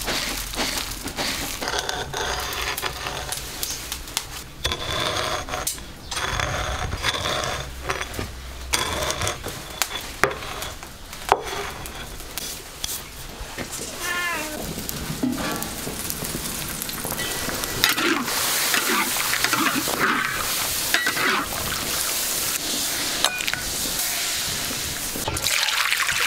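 Food sizzling as it is fried and stirred, with scattered clicks and knocks and a brief animal call about halfway through.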